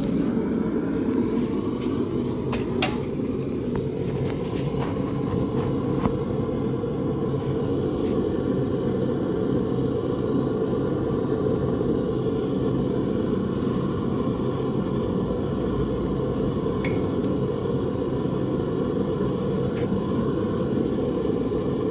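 Blacksmith's forge running with a steady low roar, with a few sharp clicks and knocks in the first six seconds.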